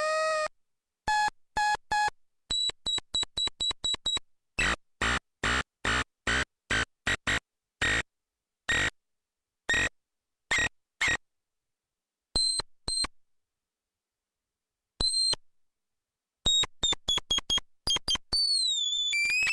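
Synth noise machine playing stuttering electronic bleeps and buzzy tones, each one cut off sharply into dead silence. It starts with a rapid run of high beeps, then comes a string of buzzier blasts, and a pitch that sweeps down and back up leads into a held tone near the end.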